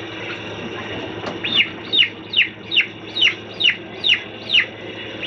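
A young bird peeping: a run of about eight high, falling peeps, two or three a second, starting about a second and a half in.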